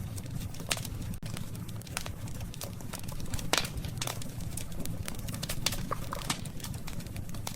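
Campfire of burning wood crackling, with irregular sharp pops and snaps over a steady low rumble of the flames; the loudest pop comes about three and a half seconds in.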